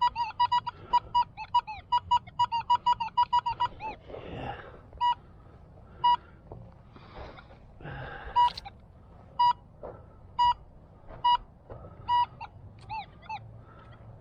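Metal detector giving target beeps: a rapid run of short pitched beeps, about four or five a second, for the first four seconds, then single short beeps about once a second. A few brief rustling noises fall between the beeps.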